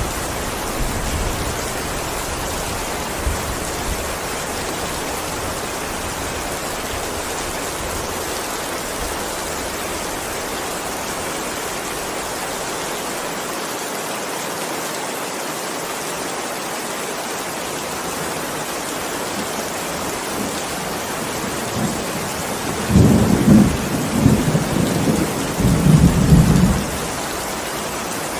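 Steady heavy rain hissing down, with a roll of thunder rumbling loudly in several surges about 23 seconds in.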